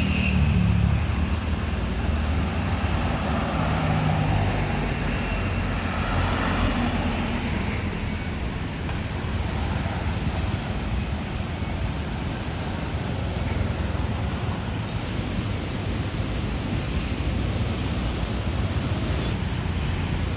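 Road traffic: motor vehicles running and passing, over a steady low rumble. In the first several seconds a passing engine stands out.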